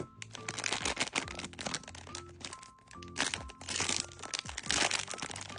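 Packaging crinkling and crackling in quick, irregular bursts as a Sonny Angel blind-box figure is unwrapped, over background music.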